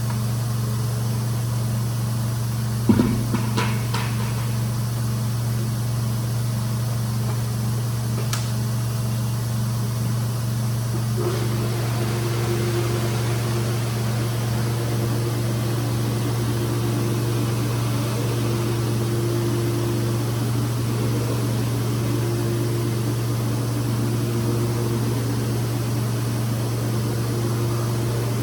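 Rug-cleaning machine running with a steady low hum, with a knock about three seconds in; from about eleven seconds a higher tone joins it on and off.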